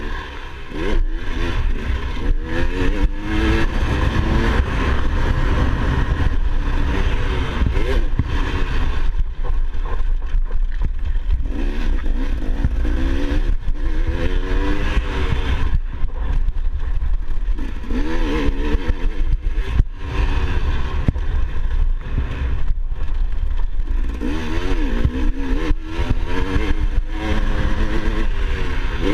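Motocross dirt bike engine revving up and down again and again, with the pitch climbing and dropping in repeated sweeps, over a heavy low rumble.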